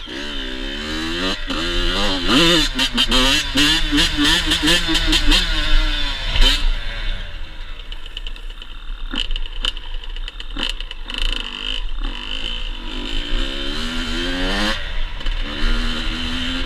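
Yamaha YZ85 85cc single-cylinder two-stroke dirt bike engine revving up and down repeatedly, settling to a lower note around the middle before revving hard again near the end.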